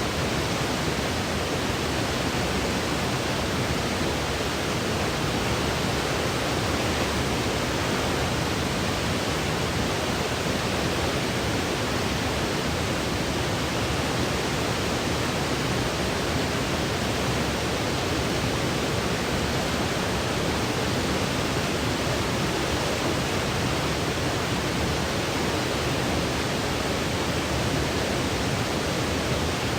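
Steady white noise for sleep: an even, unbroken hiss that never changes in level or character.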